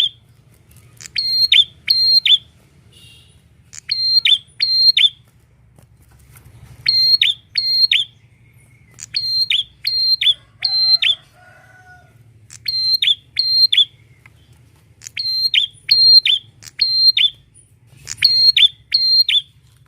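Prinia (prenjak) calling: loud, sharp, high notes in quick runs of two to four, each run repeated every second or two.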